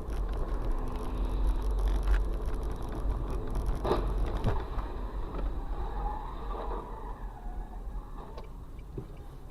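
A moving car's engine and road noise: a steady low rumble that eases off in the second half, with a sharp knock about four seconds in.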